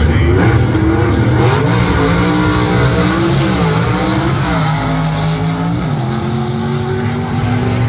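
Drag racing car's engine at full throttle, its pitch climbing and dropping back several times as it shifts up through the gears.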